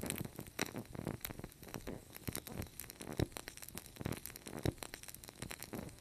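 Wood fire crackling and popping in a fireplace: a dense run of irregular snaps and pops over a soft hiss, with a couple of louder pops in the middle.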